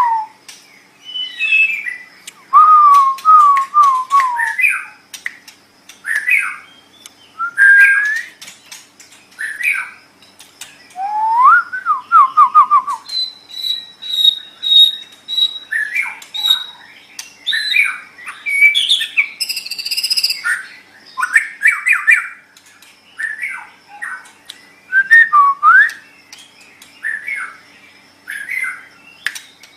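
White-rumped shama (murai batu) singing a varied stream of loud whistled phrases, separated by short gaps. The song includes rising and falling swoops, quick runs of repeated notes, a string of high piping notes near the middle, and a harsh chattering burst.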